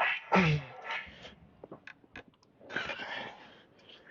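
A man's breathy exhale and a brief voiced grunt, with a few light clicks.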